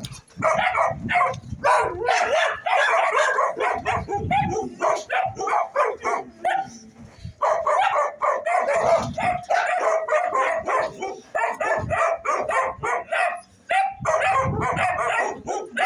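Dogs fighting over rank: rapid barking and yelping in dense bursts, with short lulls about seven seconds in and near the end.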